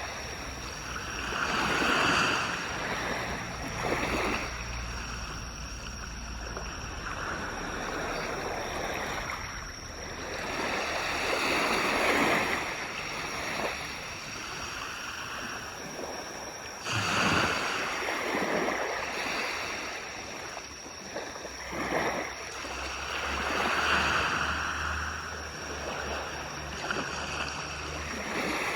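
Surf on a beach: waves breaking and washing up the shore in repeated surges a few seconds apart, each swelling and then fading.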